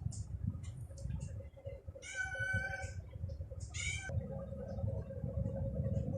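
A cat meowing twice: one long call about two seconds in, then a shorter call that falls in pitch. Short high bird chirps come in between, over a low rumbling background noise.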